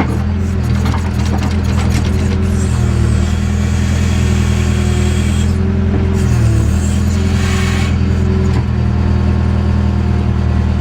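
JCB backhoe's diesel engine running steadily under working load while digging, with a whine that shifts in pitch as the arm moves and some scraping clatter in the first couple of seconds.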